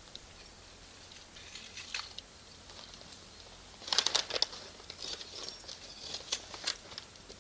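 Campfire of firewood and Iwate cut charcoal crackling and popping, with scattered sharp pops and a dense flurry of loud crackles about four seconds in.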